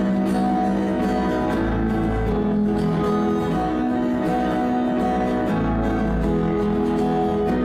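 Live pop band playing an instrumental passage of the song: strummed guitar chords over a steady bass, without vocals.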